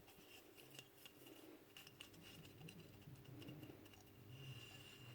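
Near silence, with faint scattered clicks of small metal nail-gun parts being handled.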